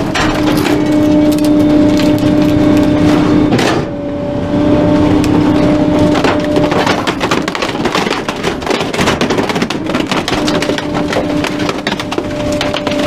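Garbage truck's hydraulic packer crushing bulky items, with dense irregular cracking and crunching over a steady hydraulic whine that drops out several times.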